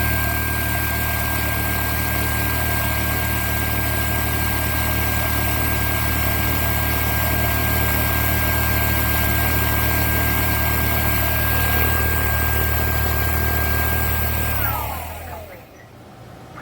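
Dreame H12 Pro cordless wet-dry vacuum mop running, a steady high whine over a low hum, then switching off about fifteen seconds in, the whine falling in pitch as the motor spins down.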